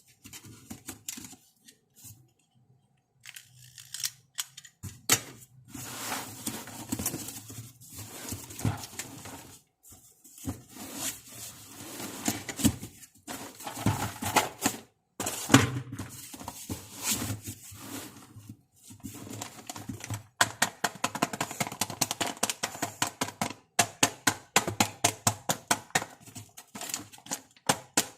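Unboxing a toy makeup set: plastic packaging being torn and crinkled, with scattered clicks and knocks of small plastic pieces. About two-thirds of the way through, this gives way to a fast, even run of sharp plastic clicks, about three a second.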